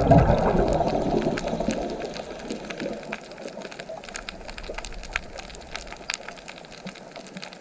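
An ocean wave washing in, loud at the start and dying away over about three seconds. It leaves a soft fizzing of draining water with many small scattered clicks.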